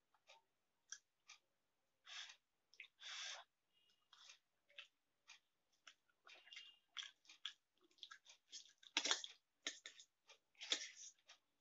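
Close-up chewing and mouth sounds of someone eating Maggi noodles, heard as soft irregular smacks and clicks with a few louder noisy bursts, the loudest about nine seconds in. Light clicks of a spoon against a steel plate are mixed in.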